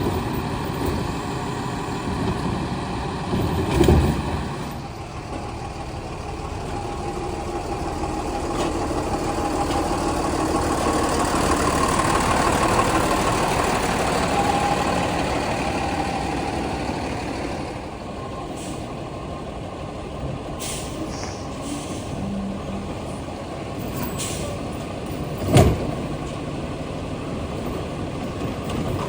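Heil STARR garbage truck running, its engine noise swelling to a louder, higher run around the middle and then easing off. A sharp bang comes about four seconds in, and another near the end.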